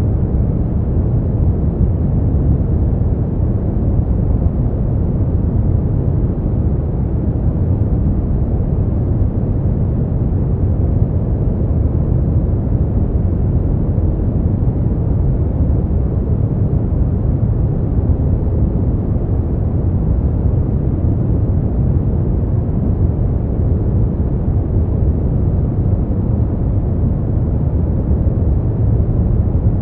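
Steady sleep noise billed as white noise, though deep and dark in tone: an even, unchanging rush heavy in the low end with little treble.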